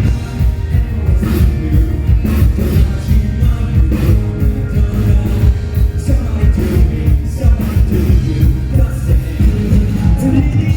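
Live band playing pop-rock at full volume, with a steady drum beat under guitars and bass, in an instrumental stretch of the song.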